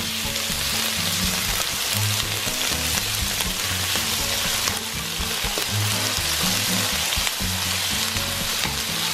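Shrimp and onions sizzling steadily in hot oil in a nonstick wok over high heat, stirred and turned with a spatula.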